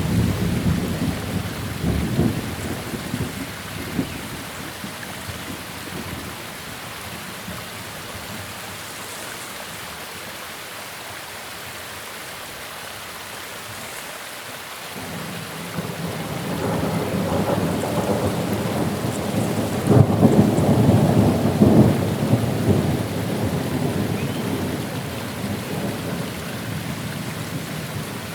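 Steady rain falling with rolling thunder. One rumble dies away in the first few seconds, then a second long roll builds from about halfway, is loudest around three-quarters through, and fades slowly.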